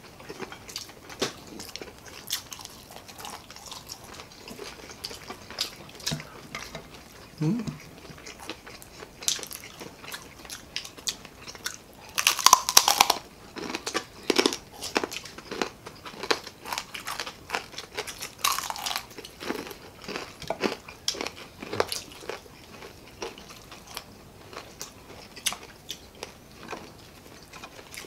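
Close-miked chewing and crunching of crispy fried food: irregular bites and crunches of chicharon and fried battered pieces. The loudest crunches come about twelve seconds in and again a few seconds later.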